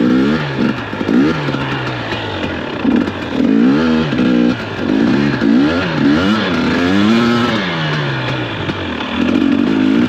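2021 KTM 250 XC-W two-stroke dirt bike engine revving up and down again and again as the throttle is worked on a slippery snow trail, its pitch climbing and dropping several times.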